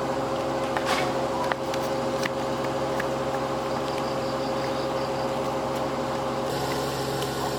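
A steady engine hum at one even pitch, with a few light clicks in the first few seconds.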